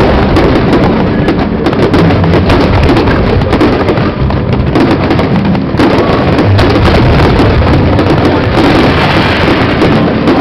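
Aerial fireworks going off in rapid, dense succession: many sharp bangs and crackles overlapping, with no pause.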